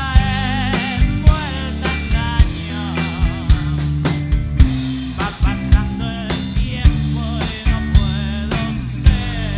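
Rock band playing psychedelic rock: regular drum-kit hits over a sustained bass, with wavering, vibrato-laden lead lines on top.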